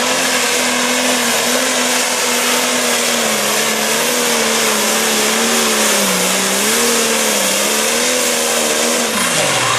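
Diesel engine of a pulling tractor or truck running hard on a sled pull, its pitch wavering up and down, then dropping away near the end as it comes off the throttle.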